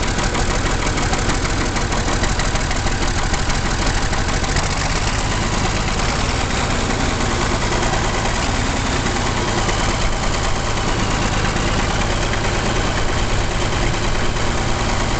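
1968 John Deere 5020's six-cylinder diesel engine, fitted with an M&W turbocharger, running steadily at idle soon after a cold start.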